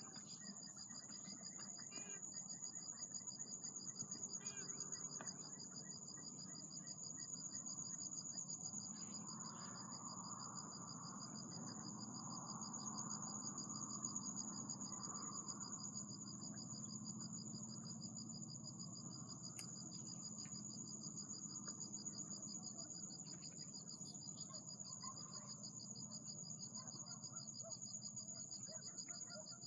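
Insects trilling steadily in two high, finely pulsed notes, over a faint low background rumble.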